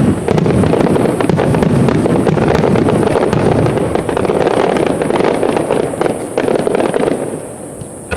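Aerial fireworks display: a dense, continuous run of overlapping bursts and crackling, which thins out and quietens near the end.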